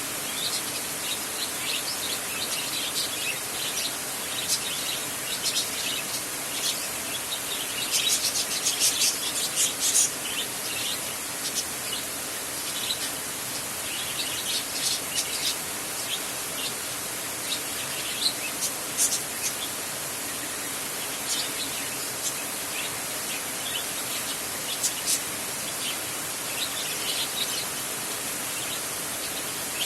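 Steady rain on a tin roof, a constant even hiss, with birds chirping in short bursts of high calls throughout.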